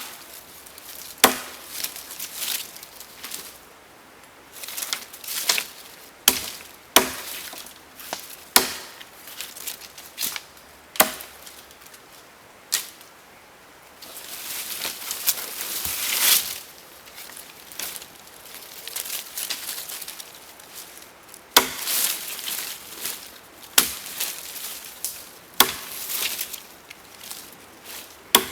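Wood being chopped or split with sharp blows, irregularly every second or two, with a longer swelling rasp around the middle.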